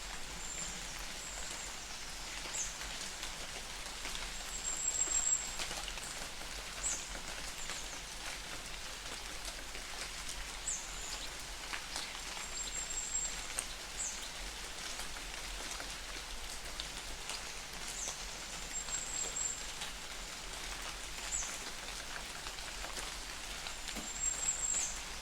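Light rain falling in a forest: an even patter with scattered single drops. A bird gives a thin, very high call every couple of seconds, some short and sliding, some held a little longer.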